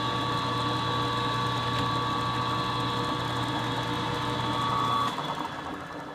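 Milling machine spindle motor running with a steady hum and whine while center drilling, switched off about five seconds in and winding down.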